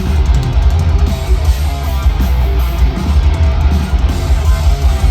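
Heavy metal band playing live: distorted electric guitars over bass guitar and pounding drums, loud and dense throughout.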